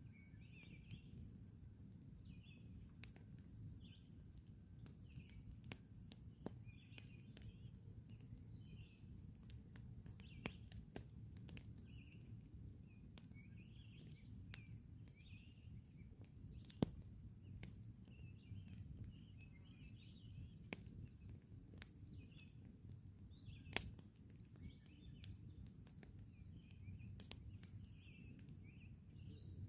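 Campfire crackling: scattered sharp pops, the loudest a little past halfway and another near the end, over a low steady background rumble. Small birds chirp over and over in the background.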